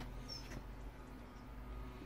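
Quiet outdoor background: a faint low hum, with one short, high, downward-sliding bird chirp about a third of a second in.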